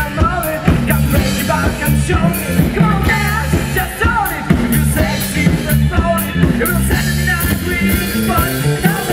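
Live band playing a funk-pop song, with a steady drum beat, bass and singing.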